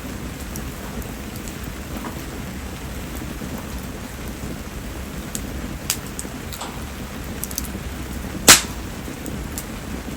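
Steady rain falling around a wood campfire, with a few small ticks and one loud, sharp snap about eight and a half seconds in.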